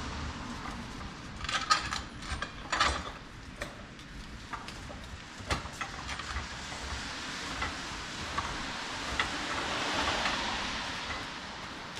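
Hand tools working on metal under a car: scattered sharp clicks and knocks, a cluster of them about two seconds in and single ones later.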